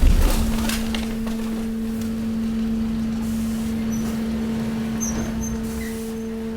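Hydraulic waste compactor at work: a low thump, then the hydraulic power pack running under load with a steady hum as the ram presses mixed waste.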